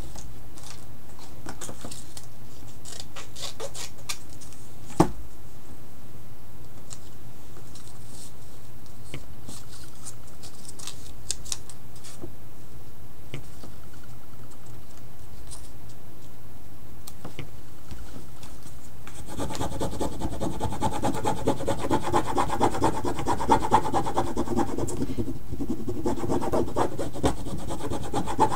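Scattered light taps and clicks, then from about two-thirds of the way through, steady scratching and rubbing of a pen or marker making marks on the painting surface.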